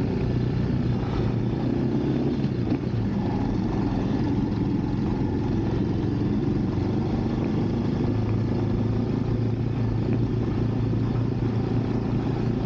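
Motorcycle engine running steadily while the bike is ridden along, at an even pitch and level.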